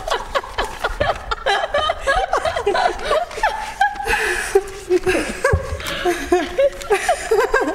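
People laughing: overlapping bouts of chuckling and giggling in quick, choppy bursts.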